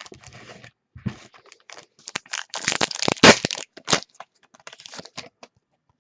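Trading cards and their packaging being handled: a run of crinkling, crackling and sharp snaps, busiest and loudest around the middle.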